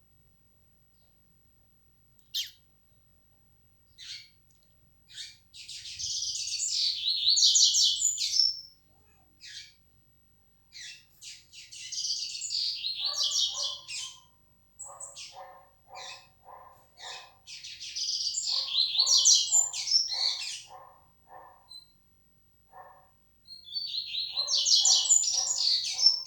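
Yellow-bellied seedeater (coleiro-baiano) singing: four bursts of fast, high, warbled song a few seconds apart, with short single notes between. From about halfway through, a lower, evenly repeated chipping runs under the song.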